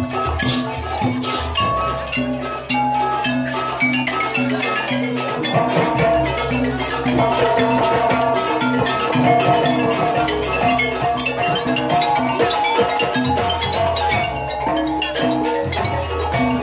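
Jaranan Banyuwangi ensemble music: drums and tuned metal percussion play a steady repeating pattern. About six seconds in, a sustained melody line joins.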